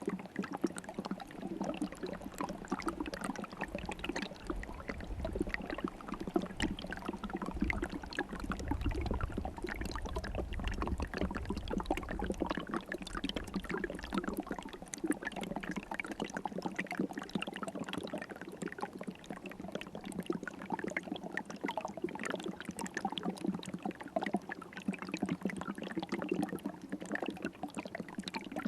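River water running and trickling steadily, with a continuous babbling splash. A low rumble joins it from about four to thirteen seconds in.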